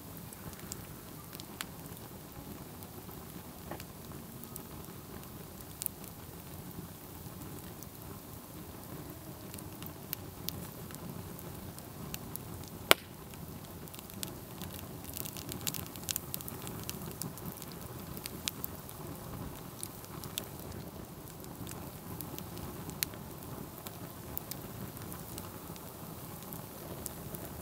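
Campfire burning: a steady low rush of flames with scattered sharp crackles and pops from the burning wood. One pop about halfway through is much louder than the rest, and the crackling grows busier for a few seconds after it.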